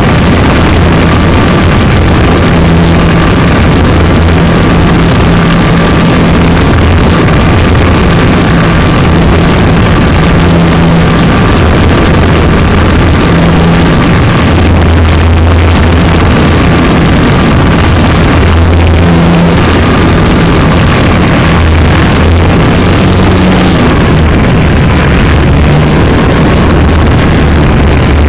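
A model plane's motor running steadily: a thin, slightly wavering whine over loud, continuous noise and a low, intermittent hum.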